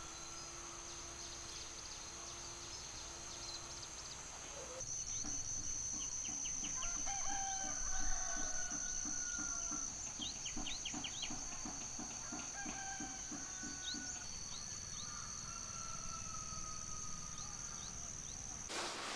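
Chickens clucking and a rooster crowing, with birds chirping, over a steady high-pitched insect drone. There is a thump about eight seconds in.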